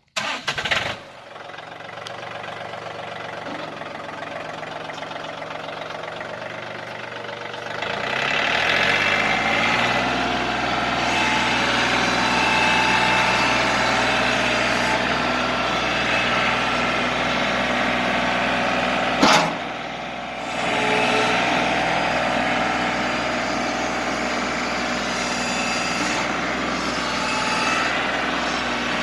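John Deere 4210 compact tractor's diesel engine starting, its speed climbing about eight seconds in and settling into a steady idle. A single sharp click sounds partway through.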